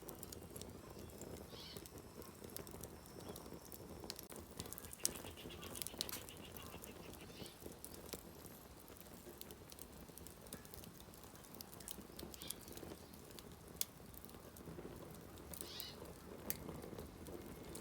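Wood campfire crackling, with scattered sharp pops at irregular intervals over a low steady rush.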